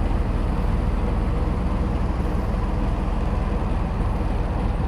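Large ship's engine running, a steady low rumble.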